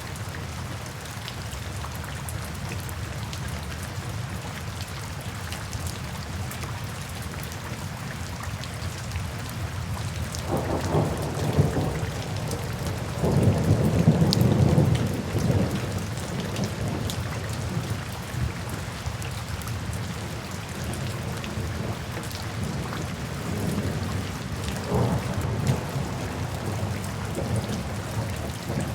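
Steady rain in a forest, with low rolling thunder that builds about a third of the way in and is loudest around the middle, then a weaker rumble a few seconds before the end.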